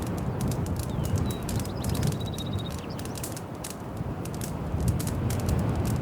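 Wood fire in a fireplace crackling and popping irregularly over a steady low rumble of the flames. A faint high chirp and a short high trill come about one to three seconds in.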